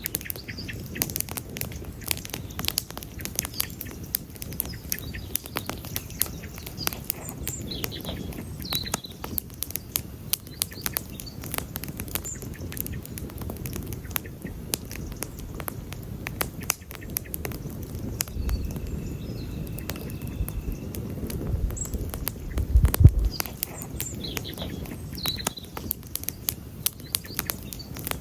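Wood campfire crackling and popping steadily, with dense sharp snaps over a low rushing burn. A thin steady whistle sounds briefly near the middle, and the low rush swells, loudest about two-thirds of the way through.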